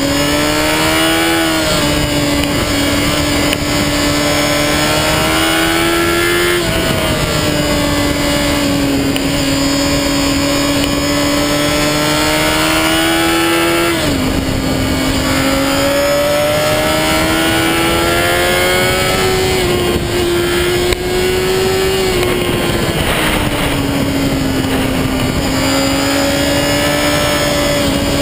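Honda CBR motorcycle engine running under way, its note climbing slowly and then falling back quickly several times as the revs rise and drop. Heavy wind and tyre noise from a camera mounted low on the front mudguard.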